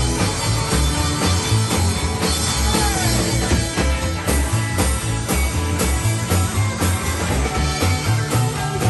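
Live rockabilly band playing an up-tempo rock and roll number: electric guitar over a pulsing bass line and a steady drum beat.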